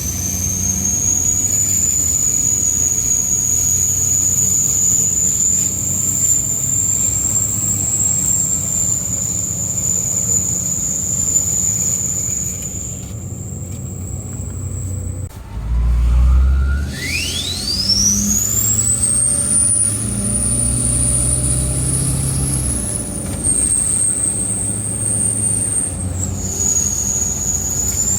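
LBZ Duramax 6.6 L V8 diesel with a Stainless Diesel 9-blade turbo and 5" exhaust: a piercing high turbo whistle holds steady over the engine, drops out about halfway, then after a loud low burst of engine sound sweeps rapidly up to an even higher pitch as the turbo spools, wavering there and dipping near the end.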